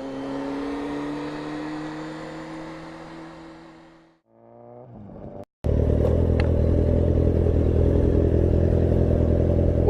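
Motorcycle engine running at steady revs, its even hum fading away over the first four seconds. After a brief break it cuts in loud and steady, held at constant revs through the rest.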